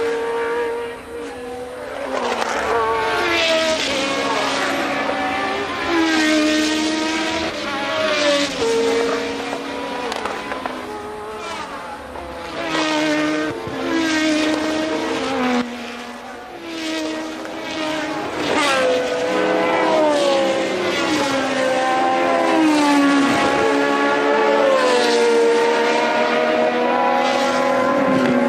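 Formula One race cars' engines at full revs as several cars pass in succession. The pitch climbs and drops back again and again with the gear changes, and sweeps down as each car goes by.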